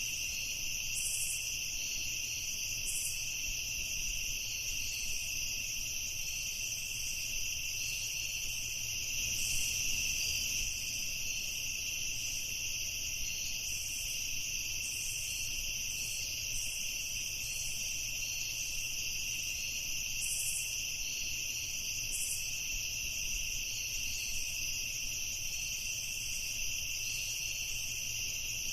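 Night insect chorus: a steady, high, continuous trilling in two pitch bands, with short higher chirps breaking in every second or two.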